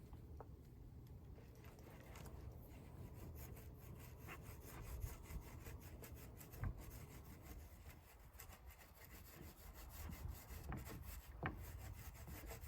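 Faint, irregular rubbing strokes of hand work on a drum shell during fibreglass coating, with a few small knocks about 5, 6.5 and 11.5 seconds in.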